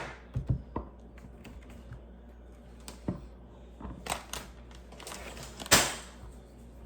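Plastic Lego pieces being handled: a scattered series of light clicks and taps, the loudest near the end.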